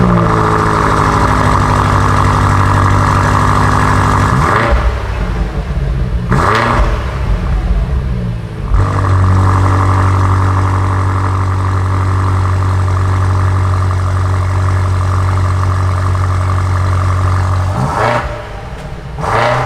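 BMW M8 Competition's twin-turbo 4.4-litre V8 running just after a cold start at a fast idle, with a short rev about six seconds in and two more rising revs near the end.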